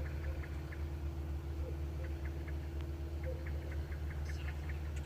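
A steady low motor hum with a steady tone above it, and short high chirps scattered irregularly through it.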